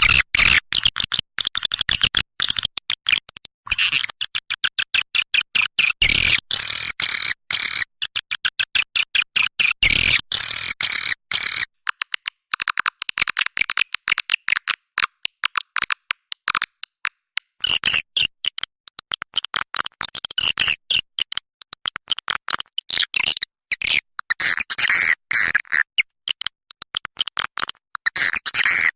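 Swiftlet calls from a lure recording of the kind played to draw swiftlets into nesting houses: a dense, rapid, choppy twittering of chirps, mostly high-pitched, with brief gaps.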